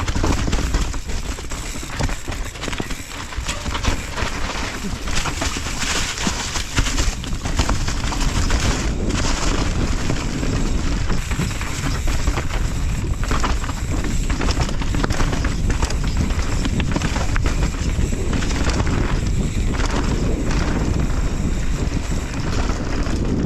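A mountain bike riding down a rocky trail, heard from a camera on the rider: wind rushing over the microphone, the tyres rolling over rock, and the bike rattling with many short knocks throughout.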